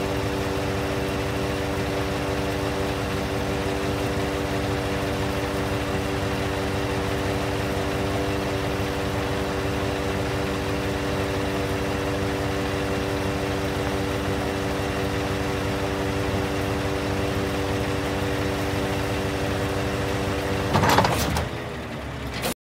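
Scania R580 truck's V8 diesel running steadily at idle, with a steady whine over the engine note. About 21 seconds in there is a brief louder noise, and the whine slides down in pitch as the sound winds down.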